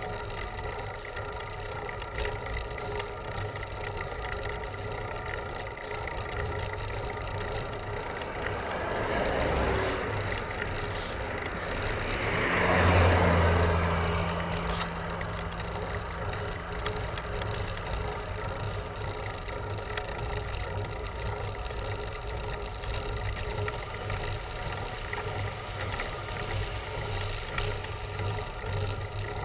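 Steady wind and road noise on a road bicycle ride, with two motor vehicles passing a few seconds apart, about a third and halfway through, each swelling and fading. The second is the louder, with a low engine drone that trails off after it.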